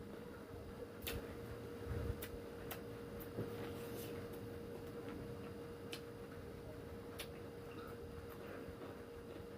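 Eating sounds: sparse, irregular sharp mouth clicks and smacks, about a dozen spread across the stretch, over a steady faint hum.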